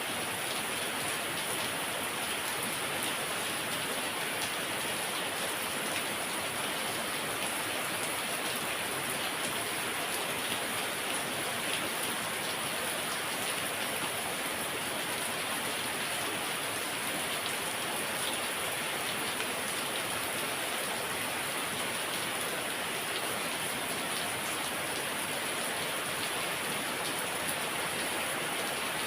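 Heavy rain pouring steadily, a dense even hiss of many drops that neither builds nor lets up.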